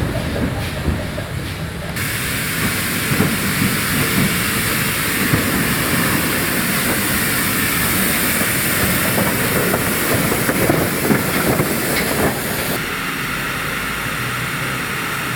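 Steam locomotive with a steady hiss of escaping steam over irregular knocks and clatter of the train. The hiss starts abruptly about two seconds in and cuts off sharply near the end.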